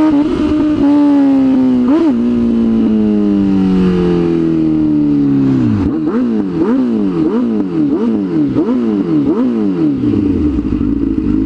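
Sport motorcycle engine heard from the rider's seat: the revs fall steadily as the bike slows, then about halfway through the throttle is blipped over and over, about two quick revs a second, before the engine settles to a steady idle near the end.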